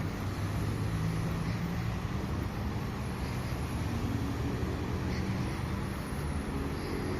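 Steady low rumble and hum of an electric metro train at the station, with no sharp events.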